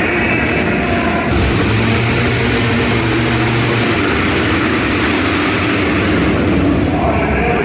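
Motocross bike engines running and revving together, a loud steady drone whose pitch rises and falls as the throttles open and close.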